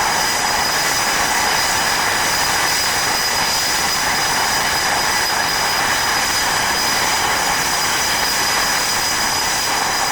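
Jet engines running up on the ground: a steady rushing noise with a thin high whine that does not change. The announcer puts the noise down to Blue Angels F/A-18s doing their run-up, which drowns out the otherwise quiet V-22 Osprey.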